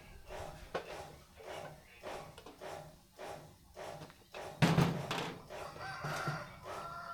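Rhythmic strokes of a hand tool working a steel saw blade, about two a second. About four and a half seconds in, a louder, drawn-out call with a held high tone starts and runs on.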